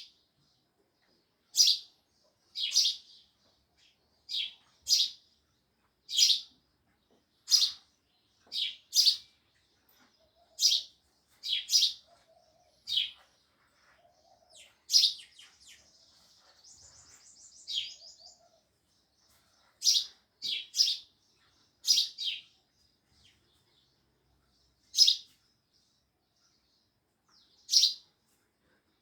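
House sparrows chirping: single short, sharp chirps every second or so, with a brief run of quicker, buzzy chatter about halfway through.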